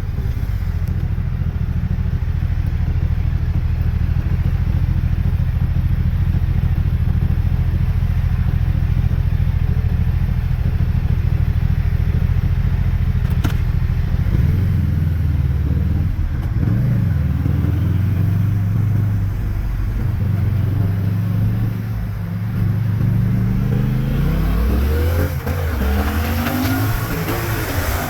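Yamaha MT-07's parallel-twin engine through a LeoVince underbody exhaust, running at a steady cruise for the first half, then easing off and changing pitch. Near the end the revs climb under acceleration, with wind hiss rising on the microphone.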